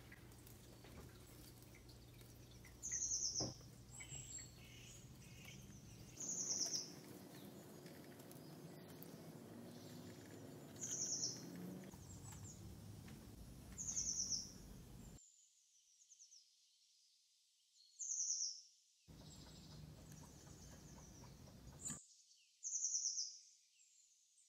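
Recorded winter birdsong used as a sound effect. One bird's short, high call, a quick falling trill, comes six times, about every four seconds, over faint background noise.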